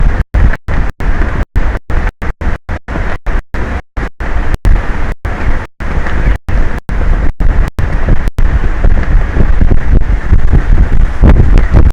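Wind buffeting the microphone of an offshore tower's ocean camera: a loud, rough rush that is distorted near full scale. The sound cuts out in many brief gaps, two or three a second at first and fewer in the last few seconds.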